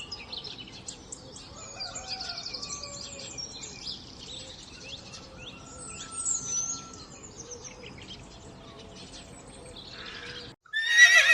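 Background birdsong: many small birds chirping and trilling over a quiet outdoor hiss. About ten and a half seconds in it cuts out for a moment, and a louder animal call starts right at the end.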